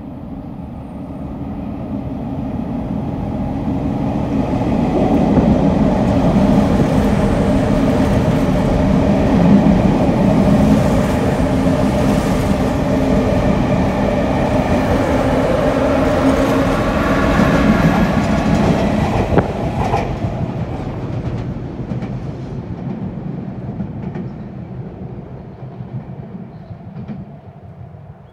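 Sotetsu 8000 series electric train passing through the station at speed without stopping: its running noise and wheel rumble grow louder over the first few seconds, stay loud for about fifteen seconds as the cars go by, then fade away.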